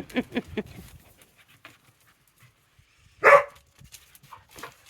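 Dogs playing rough: a quick run of short vocal noises from a dog in the first half-second, then one loud bark about three seconds in and a shorter one near the end.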